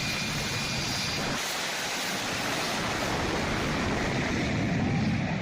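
Jet engine running with a steady rushing noise, getting slightly louder near the end.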